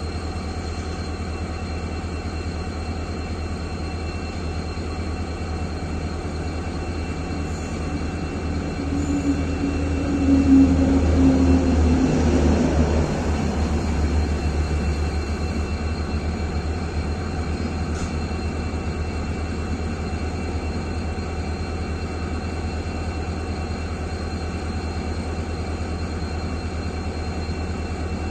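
Passenger train running past with a steady low rumble. The rumble swells to its loudest about ten seconds in, then eases back over the next several seconds.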